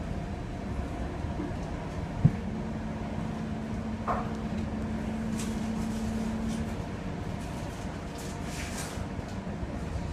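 Passenger train running, heard from inside the carriage: a steady low rumble, with one sharp knock about two seconds in and a steady low hum for the next few seconds.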